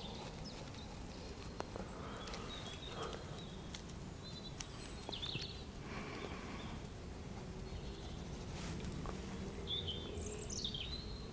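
Woodland ambience: a steady low background rush with small birds chirping now and then, a few short separate calls, and a quick falling call near the end.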